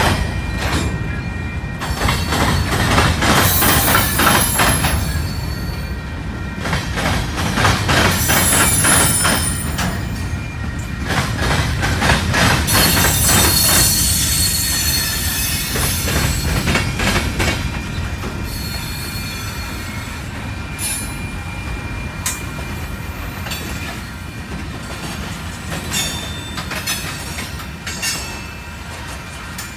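Freight train of covered hopper cars rolling past, steel wheels clacking over rail joints in quick runs, with high-pitched wheel squeal coming and going. It grows somewhat quieter over the last few seconds.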